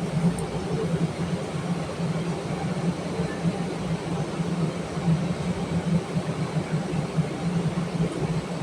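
MARTA Breda CQ312 rapid-transit car running along the track: a steady rumble of running noise with a strong low hum throughout.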